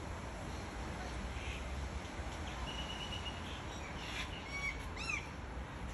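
Birds calling: a few short chirps and whistled notes from about halfway through until just before the end, over a steady low background noise.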